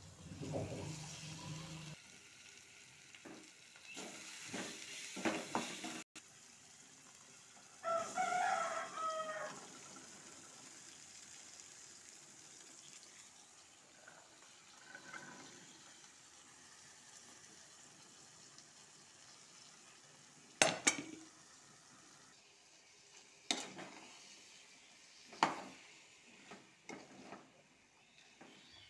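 Masala and chana frying with a faint steady sizzle in a metal kadhai on a gas stove, stirred and scraped with a spatula. Several sharp clinks of the spatula against the pan come in the last third, and a short pitched cry is heard about eight seconds in.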